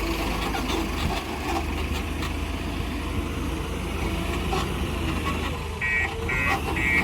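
Heavy diesel machine's engine running steadily; near the end a reversing alarm starts beeping, about two beeps a second.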